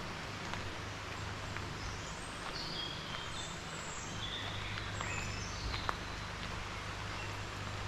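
Small birds chirping in short calls, mostly in the middle stretch, over a steady outdoor noise bed with a low hum. A few light clicks, the sharpest about six seconds in.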